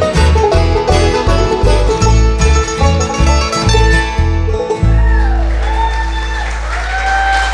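Bluegrass band playing the instrumental close of a song, with banjo and guitar over a driving bass line; about five seconds in it settles on a long held final chord with sliding notes on top.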